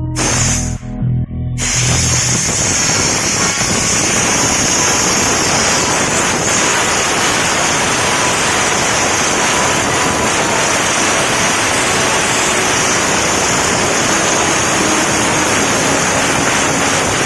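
Steam-wash gun spraying a jet of steam: a loud, steady hiss that starts about a second and a half in and holds without a break, over music.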